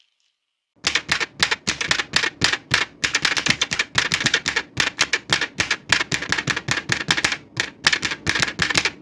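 Old manual typewriter being typed on: a quick, uneven run of sharp key strikes, several a second, starting about a second in.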